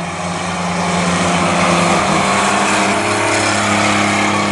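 A field of stock race trucks racing at speed, several engines running hard together. Their pitch steps up about two seconds in and again at about three and a half seconds.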